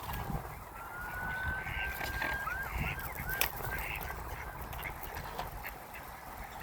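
Ducks and geese calling and honking on the river. A thin whistle rises over about two seconds and breaks into four short quick notes, and there is one sharp click midway.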